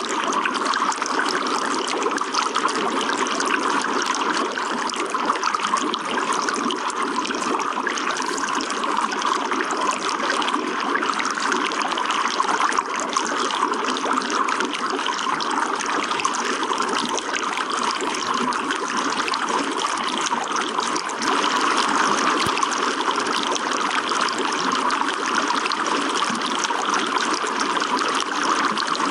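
Running water trickling and splashing steadily, with no break.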